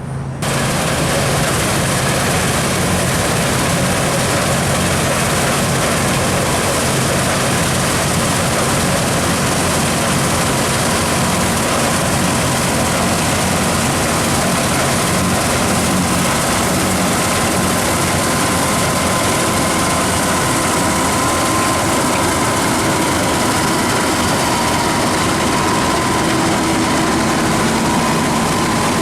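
New Holland combine harvester running steadily at work, a continuous engine drone with a faint high whine; the sound steps up abruptly just after the start.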